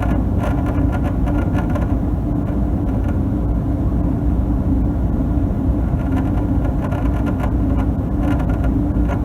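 Draft inducer motor and fan of a Payne high-efficiency gas furnace running with a steady hum and low rumble, plus an irregular rattling chatter that comes and goes. A chattering inducer like this is the sign of the motor and fan sitting out of level.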